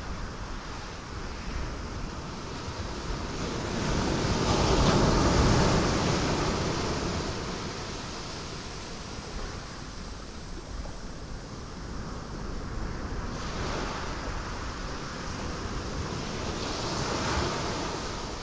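Ocean waves surging and crashing on rocks over a continuous wash of surf. One large wave builds and breaks about five seconds in and fades slowly, and another breaks near the end.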